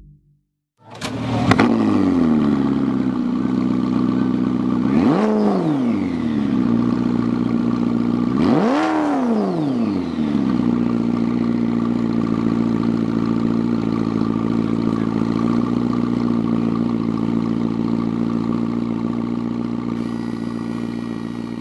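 Car engine starting about a second in and flaring briefly, then revved twice in quick blips about five and nine seconds in, each rising and falling in pitch, before settling into a steady idle.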